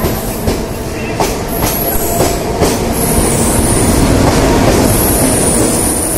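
Central Railway Mumbai suburban EMU local train running past along the platform: a loud, steady rumble with wheels clicking over rail joints. A high wheel squeal comes in about three seconds in and again near the end.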